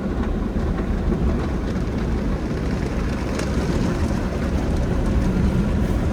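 Conveyor car wash tunnel equipment running, a steady rush of water spray and machinery washing over the car.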